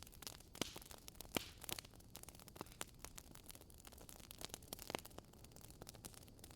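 Wood fire burning in a fireplace, crackling softly with irregular small snaps and a few sharper pops over a faint hiss.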